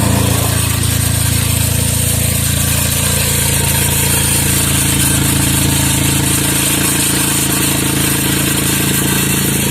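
Chevrolet Traverse engine idling with a loud, steady exhaust drone, the exhaust leaking where a broken bracket weld has left a big hole.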